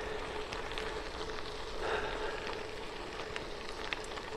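Bicycle tyres rolling along the old railway-bed trail: a steady crackling hiss with scattered small clicks.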